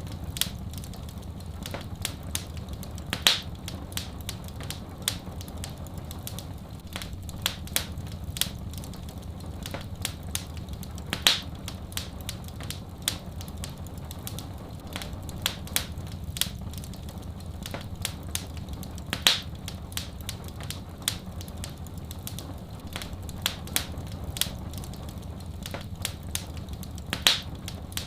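Fireplace fire crackling with constant irregular snaps and clicks over a steady low rumble. A louder pop comes about every eight seconds.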